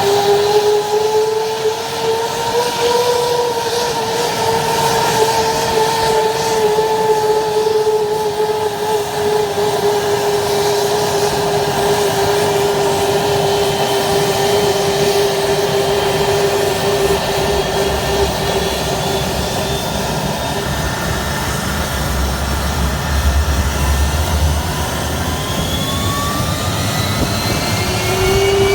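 F-15J fighter's F100 turbofan engines whining through start-up, a steady high whine that drifts slightly in pitch. A low rumble swells up and dies away, and near the end several rising whines come in as an engine spools up.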